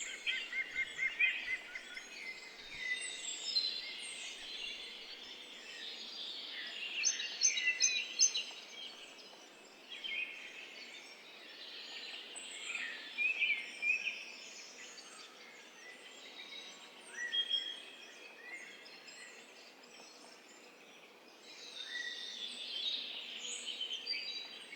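Several songbirds singing in a forest chorus: overlapping chirps, trills and short whistled phrases over a faint steady outdoor hiss.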